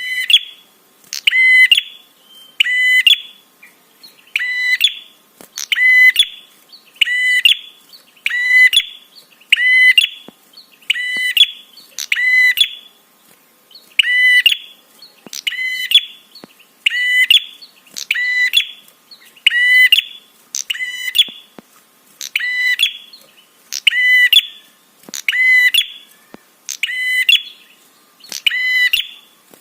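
Prinia (prenjak) call played as a lure recording: a short, sharp, high chirp repeated evenly about once a second, loud and steady in rhythm.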